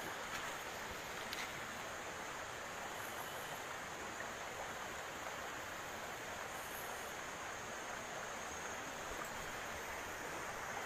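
Steady rushing of a waterfall: an even hiss of falling water with no change throughout.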